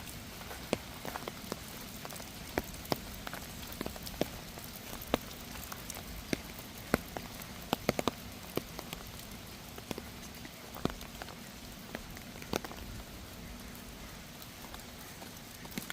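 Steady rain falling, with irregular sharp taps of drops landing close by.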